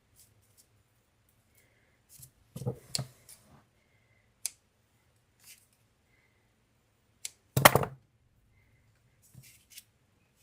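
Scattered handling sounds from clay crafting: light clicks and taps, with one louder knock about three-quarters of the way through.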